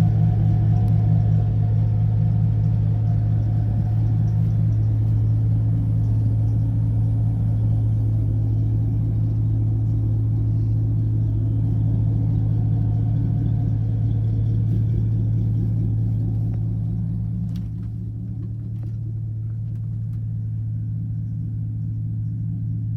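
Vehicle engine idling steadily with a low, even hum. It becomes slightly quieter about 17 seconds in.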